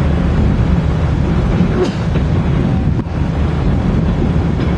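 Steady low rumble of a railway brake van rolling along the track, with two light clicks about two and three seconds in.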